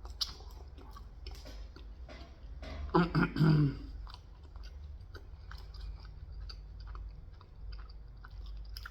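Close-up chewing of leftover pizza, with many small crunching clicks, and a brief louder mouth sound about three seconds in.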